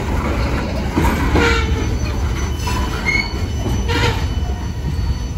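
Loaded freight hopper cars rolling past on a curve: a steady low rumble of wheels on rail, with short high wheel squeals about one and a half, three and four seconds in.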